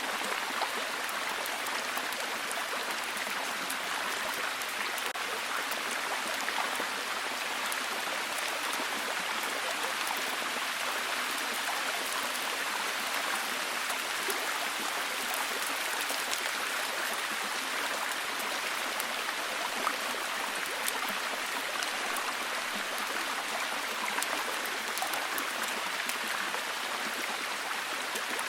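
Steady heavy rain, a dense even hiss of falling water with many small drop ticks.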